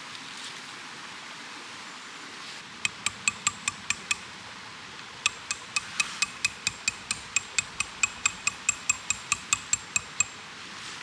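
Rapid light metallic taps, about four or five a second, each with the same brief ringing tone. There is a short run of them, a pause, then a longer run.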